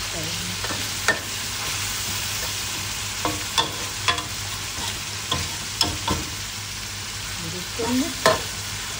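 Eggs and pork frying in hot oil in a metal wok with a steady sizzle. A metal spatula stirs and scrapes through them, clacking against the wok about seven times at uneven intervals.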